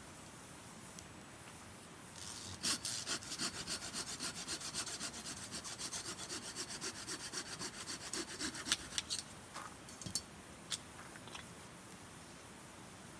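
Hand saw cutting a piece of firewood in quick, even back-and-forth strokes for about seven seconds, then stopping, followed by a few sharp wooden clicks.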